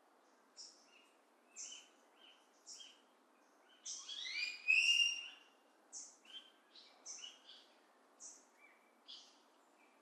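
Wild birds calling: short high chirps about once a second, each with a lower note, and a louder run of rising notes in the middle. A faint steady hiss lies underneath.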